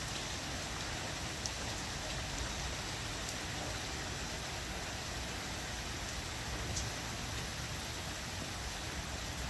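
Heavy, steady rain falling without a break, an even hiss with a few faint drop ticks.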